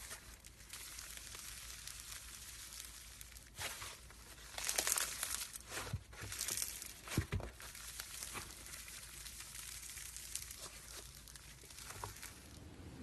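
Crinkling, crackling handling noises, louder in two bursts about five and six and a half seconds in, with scattered clicks and a single knock just after the second burst.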